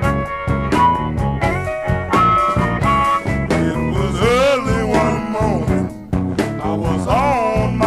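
Blues band playing, with guitars, bass and drums. A lead line bends notes up and down about halfway through and again near the end.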